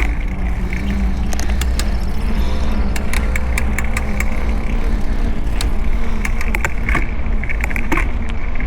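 Steady wind rumble on a 360 camera's built-in microphone while cycling along a road. A motor vehicle's engine passes through the middle, and scattered clicks and rattles come from the bike.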